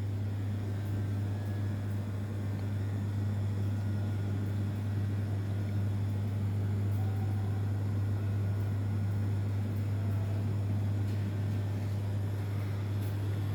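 A steady low hum under a faint hiss, unchanging throughout.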